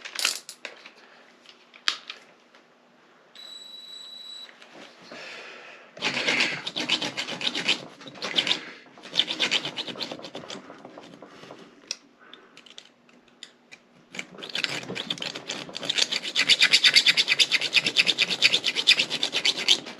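Hand scraping and rasping on metal in repeated bouts, growing into fast, continuous rasping strokes over the last five seconds.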